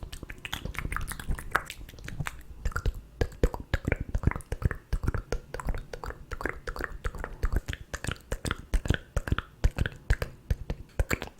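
ASMR mouth sounds close to the microphone: a dense, irregular run of wet clicks and smacks from lips and tongue.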